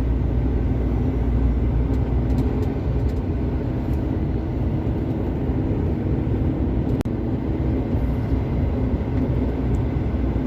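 Steady low rumble of a long-haul truck's diesel engine and road noise, heard from inside the cab while driving, with a momentary dropout about seven seconds in.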